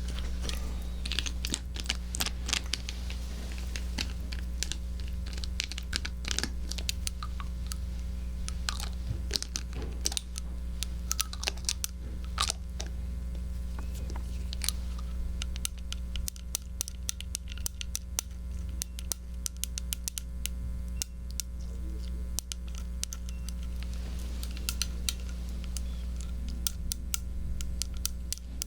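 Irregular soft clicks and scratches close to a binaural microphone, an ASMR trigger sound with no steady rhythm, over a faint steady low hum.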